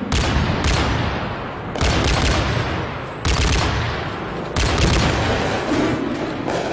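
Small-arms gunfire in repeated bursts, about five sharp volleys a second or so apart, each trailing off in a long echo.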